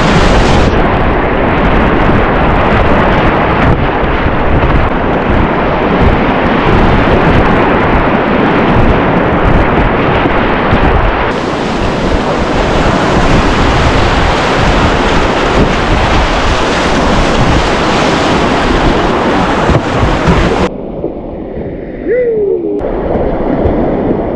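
Loud, steady rush of Class III whitewater rapids, with water and wind buffeting the camera microphone. Near the end it turns muffled and quieter for about two seconds, with a short falling tone, then the rush returns.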